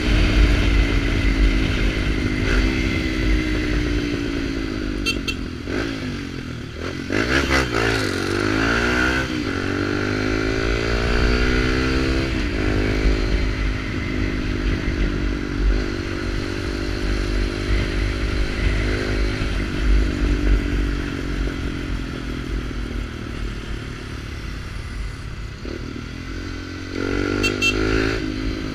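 Small Kawasaki Ninja motorcycle running through a sport exhaust pipe with no silencer while riding, its revs repeatedly dropping and climbing again through gear changes.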